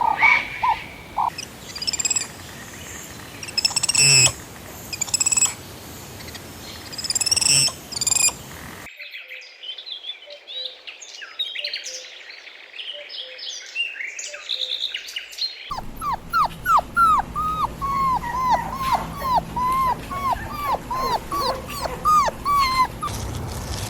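Animal and bird calls from several clips cut together. First come scattered high chirps with a few sharp clicks. Then, after an abrupt change, thinner high chirps. From about two-thirds of the way in, a long run of quick, high, falling calls follows, two to three a second.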